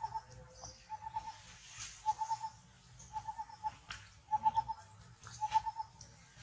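A bird calling repeatedly: a short run of three or four quick notes, given about once a second in a steady rhythm.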